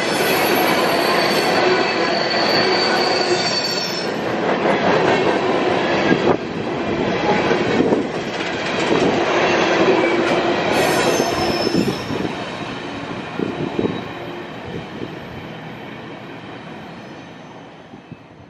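Empty steel coal hopper cars rolling past at a grade crossing: a steady rumble and rattle of wheels on rail, with knocks and a high wheel squeal at times. The noise dies away over the last several seconds as the end of the train goes by.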